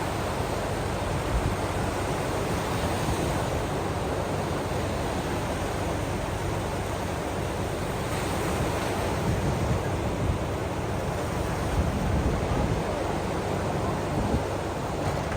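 Steady wash of ocean waves with wind, a low rumble swelling now and then, a little stronger in the second half.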